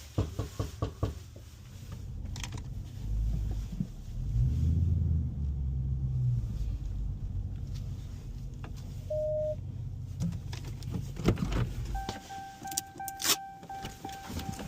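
Car sounds: a run of clicks, then a low rumble for several seconds, then a steady electronic chime tone that starts near the end.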